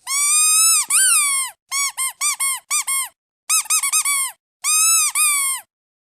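Rubber duck squeaky toy squeezed repeatedly: two long squeaks, then two runs of short quick squeaks, then two long squeaks again, each a high pitch that rises and falls.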